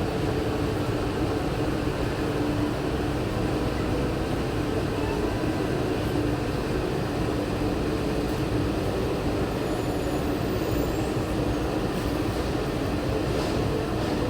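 Steady hum and rumble inside a Walt Disney World monorail car, with a constant low two-note drone over an even noise and no change in level.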